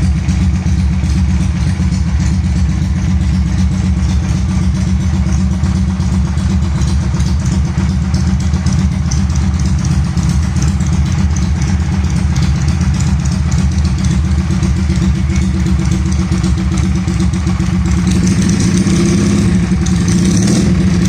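Regal Raptor motorcycle engine idling steadily through its exhaust, a little louder for a few seconds near the end.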